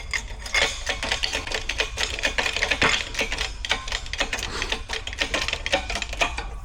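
Rapid, irregular metallic clicking and ticking, many clicks a second, from a shop press working a pinion bearing down onto a differential pinion.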